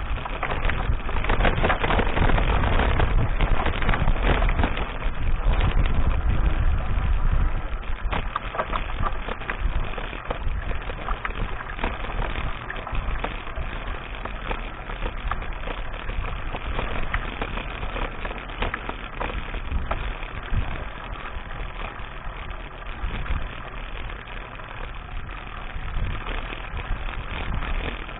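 Mountain bike being ridden over a dirt track: tyre noise and rattling of the bike, with wind rumbling on the action camera's microphone, heaviest for the first seven seconds or so and lighter after.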